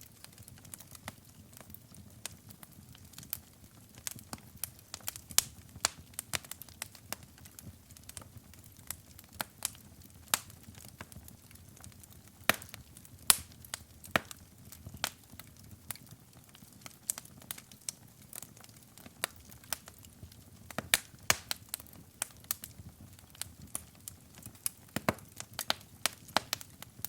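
Wood fire burning in a fireplace: irregular sharp crackles and pops, some loud, over a soft low hiss.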